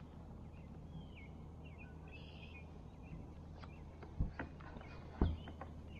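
Faint bird chirps over a low steady hum, then two dull knocks about a second apart near the end.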